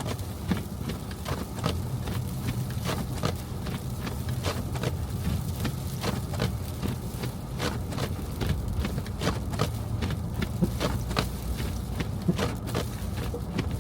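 Car driving through snow: a steady low rumble of engine and road noise, with many short sharp clicks, a few each second, at an uneven pace.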